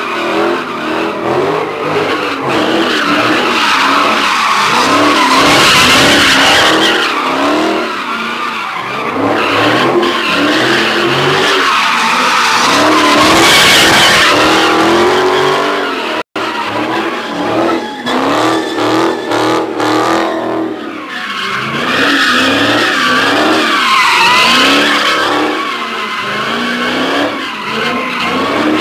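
Car engine revving up and down over and over while its tires squeal and skid in a burnout and drift. The sound cuts out for an instant a little past halfway.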